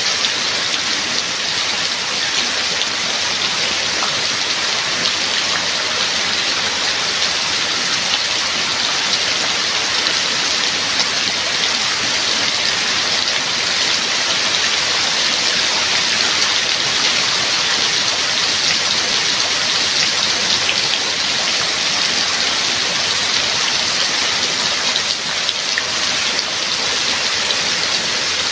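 Steady heavy rain, a dense even patter of drops with no break or change.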